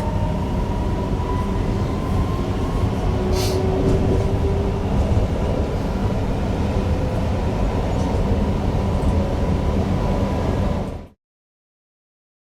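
Newag Impuls EN63 electric multiple unit running along the track, heard from the driver's cab: a steady deep rumble with a thin steady electric whine over it. A sharp click at the start and a short hiss about three and a half seconds in; the sound cuts off abruptly about eleven seconds in.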